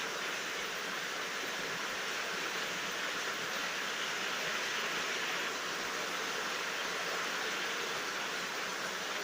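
Steady rain falling at night without thunder: an even, unbroken hiss of many drops.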